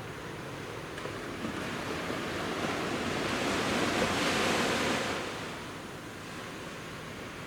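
Sea waves breaking and washing up a beach, one wave swelling to a peak about halfway through and then easing back, with some wind in the background.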